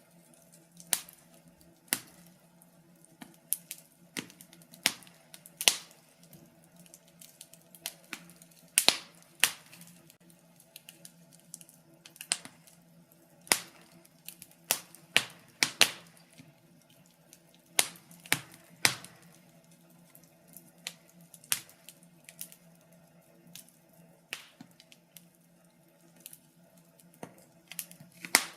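Wood fire in a fireplace crackling: irregular sharp pops and snaps, about one every second or two and sometimes in quick clusters, over a faint steady hum.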